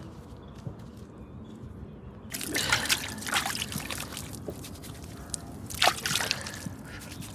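Water and wet mud trickling and splashing: quiet at first, then a rush of splashing with crackles about two seconds in, and another short burst near six seconds.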